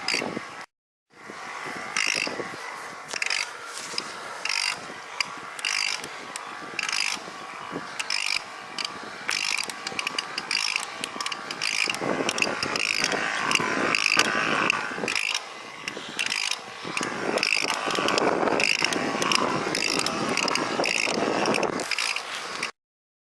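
Kalkhoff pedelec's drive making a repeating mechanical click about once or twice a second while ridden under load on a climb, a noise the owner thinks comes from the bottom bracket.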